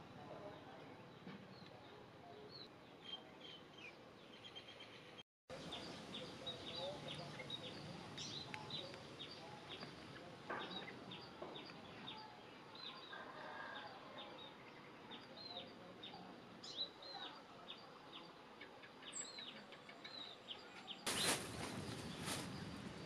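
Quiet outdoor ambience with small birds chirping over and over in short, high calls. A brief louder burst of noise comes near the end.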